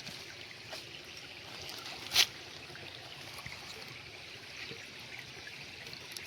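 Stream water trickling steadily, with one sharp knock about two seconds in.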